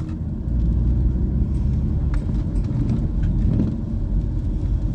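A car driving, a steady low road rumble with a few faint clicks.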